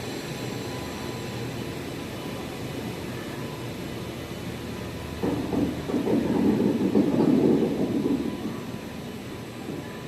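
Moving passenger train running on the rails with a steady noise that swells into a louder rumble for about three seconds past the middle, then settles back.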